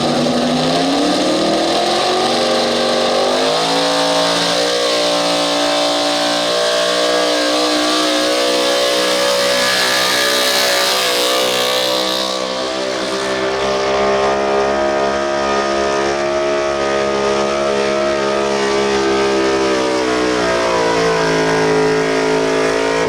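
Super street 4x4 pulling truck's engine held at high revs under load during a sled pull. It climbs in pitch over the first few seconds, stays steady for a long stretch, dips slightly near the end, then cuts off suddenly.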